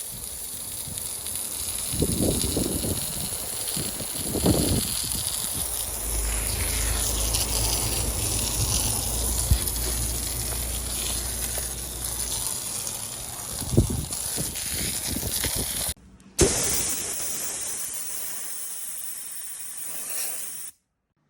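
Surf washing on a beach, a steady rushing hiss, with wind buffeting the microphone in low rumbles and a few short thumps.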